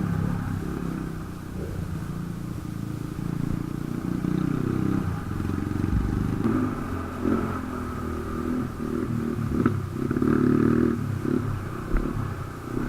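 Motorcycle engine running steadily while being ridden, its drone rising and falling a little with the throttle.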